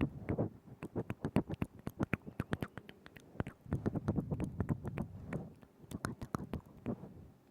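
Wet ASMR mouth sounds close to a binaural microphone: rapid, irregular lip and tongue clicks and smacks, several a second.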